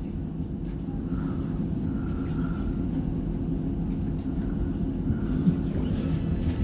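Inside a CAF Urbos 3 tram pulling away and running: a steady low rumble, with a faint higher tone that comes and goes.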